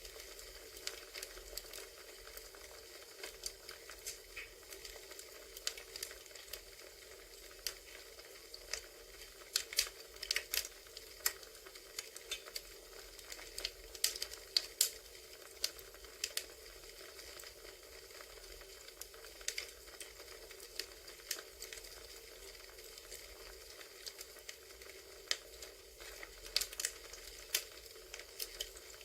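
Crackling wood fire: a steady soft hiss with irregular pops and snaps, which bunch up about ten and fifteen seconds in and again near the end.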